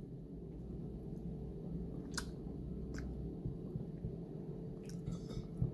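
Quiet chewing and mouth sounds of a person eating, with a few faint short clicks over a steady low background hum.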